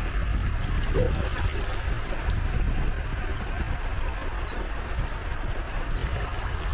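Small sea waves lapping and washing steadily at the shore, with a low rumble of wind on the microphone.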